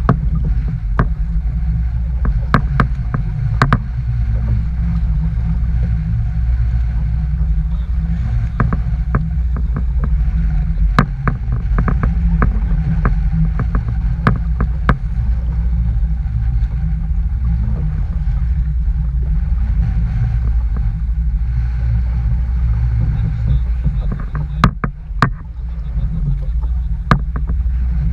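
Strong wind buffeting the microphone as a heavy, unsteady rumble, with scattered sharp ticks and taps throughout.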